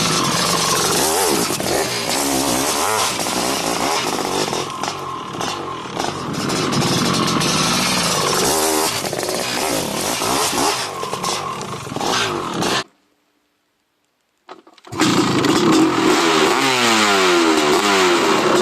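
Honda CR500 single-cylinder two-stroke motorcycle engine running hard, its revs rising and falling through the exhaust. About thirteen seconds in it cuts off abruptly to silence for two seconds, then the engine comes back revving with rising sweeps in pitch.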